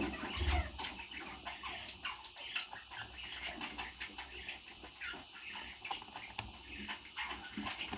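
Parrot chirping and squawking in short, irregular calls, with a low thump about half a second in.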